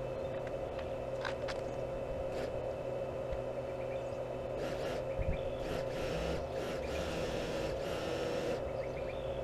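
A machine running steadily, with a constant whine over a hiss, and scattered short scrapes and knocks.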